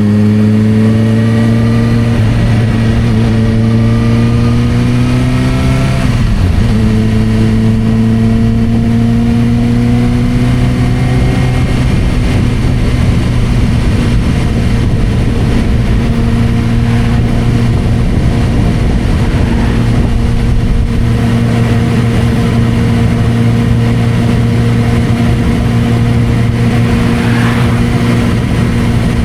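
Suzuki GSR600's inline-four engine through a Dominator aftermarket exhaust, heard while riding. Its note rises steadily, drops with an upshift about six seconds in, rises again, then holds a steady cruising pitch.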